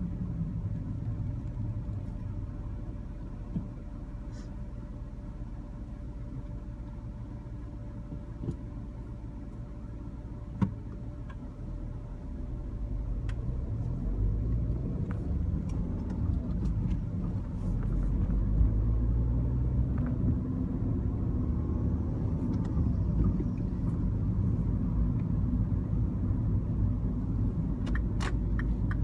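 Mini Cooper with a manual gearbox being driven: a steady low engine and road rumble that grows louder about halfway through as the car picks up speed, with a few faint clicks.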